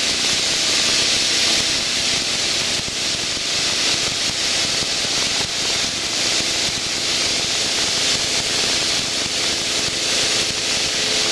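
Light propeller airplane in flight heard from inside the cockpit: a steady engine and propeller drone under a loud, even hiss of airflow.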